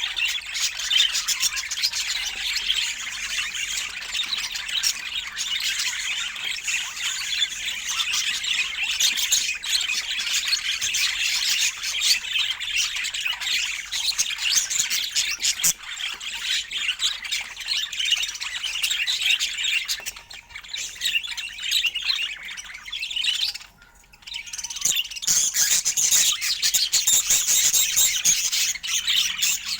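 Budgerigar chatter: a dense, continuous stream of warbling chirps and squawks, briefly dropping away twice about two-thirds of the way in before picking up again.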